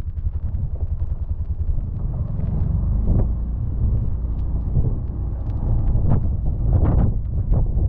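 Can-Am Defender side-by-side's engine running with a steady low rumble, with a few brief louder noises about three, six and seven seconds in.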